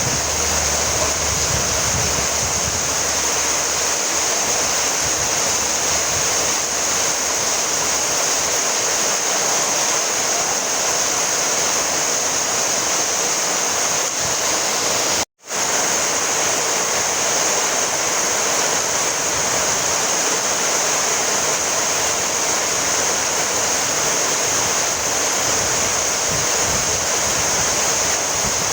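Steady rainfall, a dense even hiss of drops, cutting out for a split second about halfway through.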